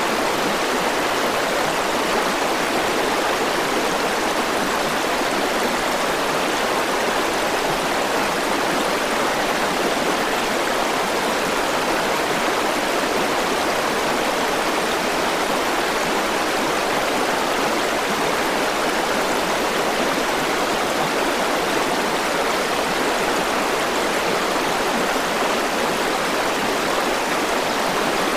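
River water rushing and burbling over rocks in a steady, unbroken flow.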